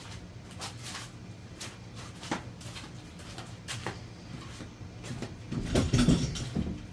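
Light clicks and taps of engine parts being handled on a workbench during a motorcycle engine rebuild. Near the end comes a louder cluster of scuffing knocks, lasting about a second.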